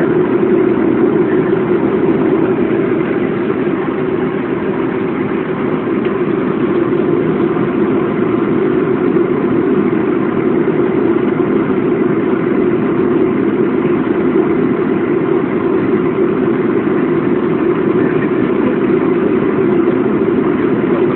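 Steady engine and airflow noise heard inside a Boeing airliner cabin, a loud even drone that does not change.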